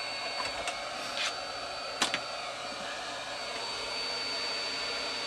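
Hot air gun on a low heat setting of about 120 °C, blowing steadily with a thin high whine. It is softening the glue on a resin top. A few light clicks come in around the first two seconds.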